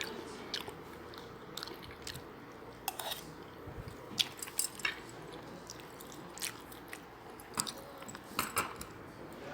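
Close-up chewing and mouth sounds of a person eating rice and tilapia, with scattered small clicks and smacks.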